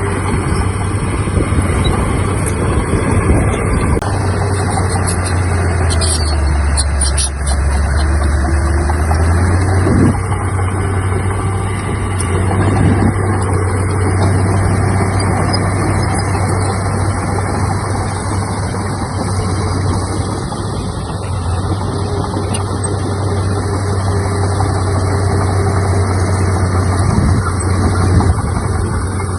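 Diesel engine of a Komatsu D31P crawler bulldozer running steadily under work. Its low hum drops in pitch for a few seconds about six seconds in, then comes back up.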